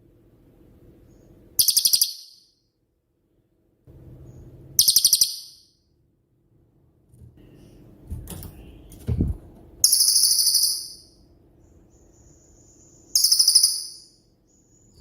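A cililin songbird calling in four short, very high, rapid trills, each about half a second long and a few seconds apart: the bird's clipped 'tembakan' shot-like bursts. There is a low thump about nine seconds in, over a faint low hum.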